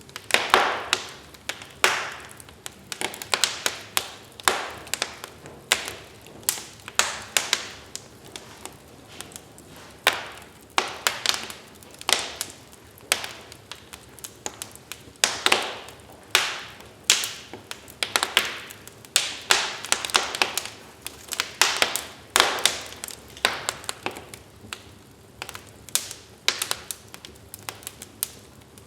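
Wood fire crackling in a fireplace: irregular sharp pops and snaps, some in quick clusters, over a faint hiss.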